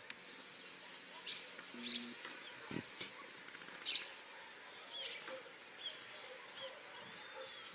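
Small birds chirping and calling in short, scattered high notes, with a few louder chirps among them.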